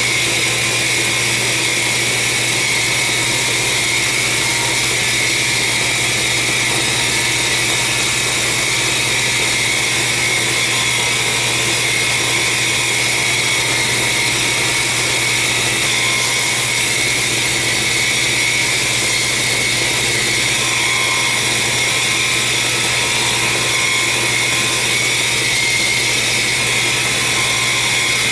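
Belt grinder running steadily as a forged steel straight-razor blank is rough-ground and squared up, a constant hum under a steady grinding hiss.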